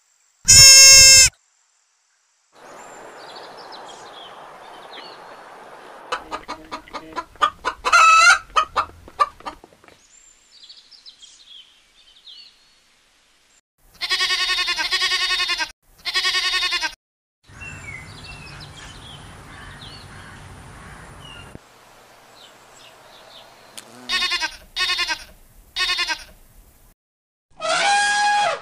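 A string of separate animal calls with pauses between them. There is a bleat at the very start, a run of quick pulsing calls a few seconds later, and two long, loud sheep bleats about halfway through. Three short bleats come later, and another loud call begins near the end.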